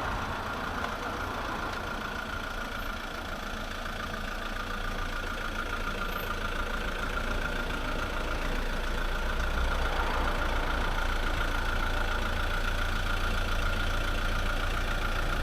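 A vehicle engine idling steadily, with a faint steady whine above the low rumble.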